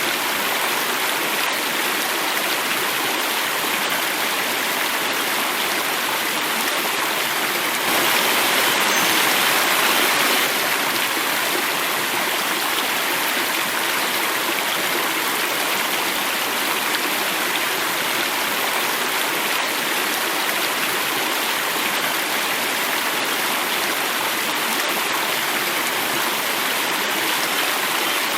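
Water flowing and falling in a cascade: a steady, dense rushing. About eight seconds in it turns suddenly louder and brighter for about two and a half seconds, then drops back just as suddenly.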